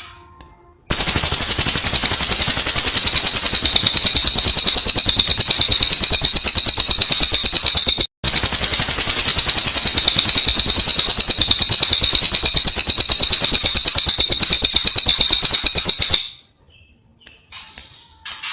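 Cililin songbird giving a loud, high-pitched, very rapid continuous trill that cuts out briefly about eight seconds in, resumes, and stops a couple of seconds before the end.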